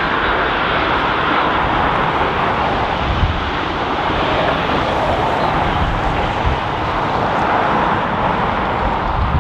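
Boeing 787-8 jet airliner's engines heard as a steady, loud rush on landing, with strong gusty wind rumbling on the microphone.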